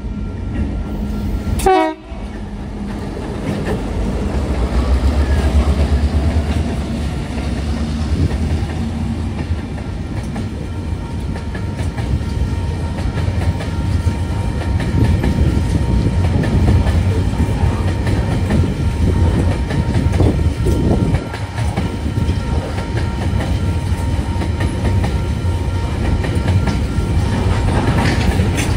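TasRail 2050-class and TR-class diesel locomotives rumbling past, their low engine sound strongest from about four to nine seconds in. Then a long string of container wagons rolls by with steady wheel-on-rail noise and clickety-clack over the rail joints. A brief sharp swishing noise comes just before two seconds in.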